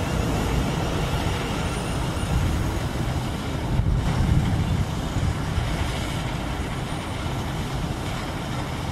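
London Northwestern Railway multiple unit running away into the distance, a steady low rumble with no horn or clear engine note.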